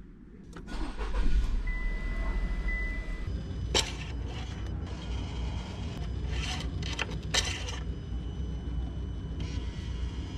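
A 2023 Chevrolet Trailblazer's engine starting about half a second in and then idling steadily. Over the idle come two short electronic dashboard chimes and a few sharp clicks.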